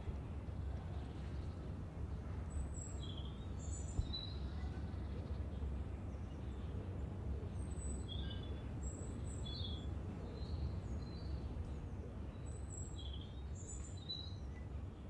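Small birds chirping, short high calls scattered every second or so, over a steady low rumble of outdoor background noise.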